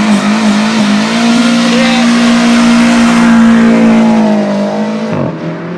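Car engine revved up and held at a steady high pitch for several seconds, then let fall about five seconds in.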